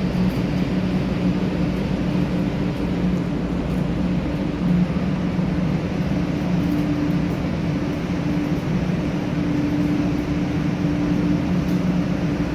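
A 500-series Shinkansen train set stands idle with its onboard equipment humming steadily. The hum is a low drone with two steady tones, with no rise or fall in pitch.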